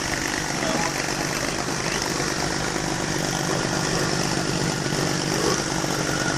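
Car engine idling at a steady speed, with an even, unbroken hum.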